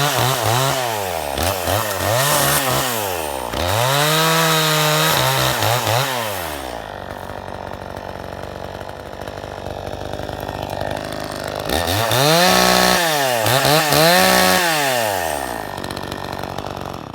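Cheap Chinese-made two-stroke chainsaw of about 50 cc being revved up and down several times. It settles into a steadier note for about five seconds midway, is revved again a few times, then cuts off at the very end.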